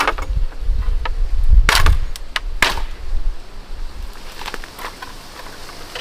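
Two sharp strikes, about a second apart, over a low, uneven rumble, followed by a few fainter knocks.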